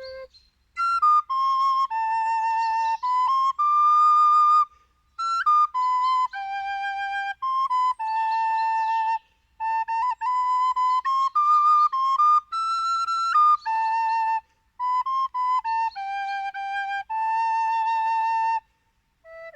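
A solo flute plays a slow melody, one note at a time, with a slight vibrato on the held notes. The phrases are broken by short pauses for breath.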